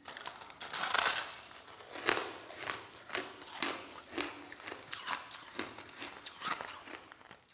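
Crushed ice being chewed: a run of soft, crisp crunches, roughly one to two a second.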